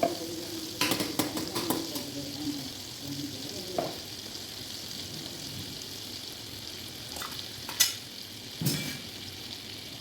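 Food frying in a pan with a steady sizzle, while a spoon stirs it and knocks against the pan: a run of sharp clicks about a second in and a couple more knocks near the end.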